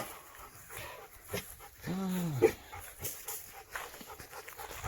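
A dog vocalising: one short call that rises and falls in pitch about two seconds in, among a few fainter short sounds.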